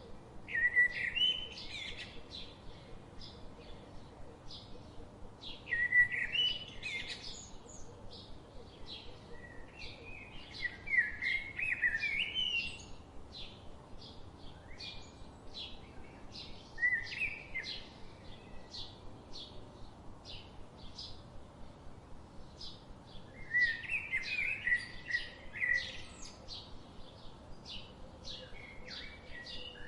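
Birds chirping and singing: a steady run of short high chirps, about two a second, with louder warbling phrases breaking in every few seconds.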